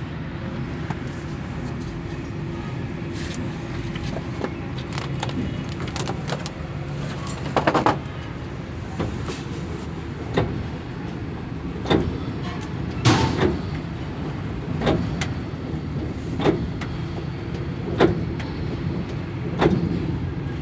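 Metal hand tools clicking and clinking on a Hino M10C diesel engine's valve gear during tappet adjustment, over a steady mechanical hum. One ringing metallic clink comes about eight seconds in; then sharp clicks follow every second or two.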